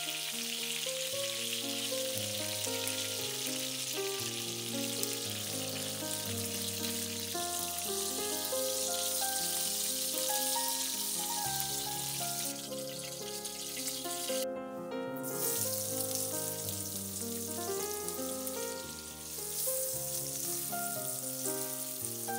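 Steady sizzle of chicken legs frying in oil in a pan, then of sliced onions frying after a brief break about two-thirds of the way in, under background music.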